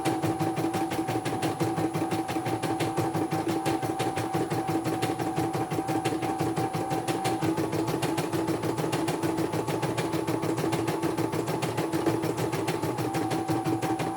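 Computerized embroidery machine running and stitching, with a rapid, even clatter of needle strokes over a steady motor hum.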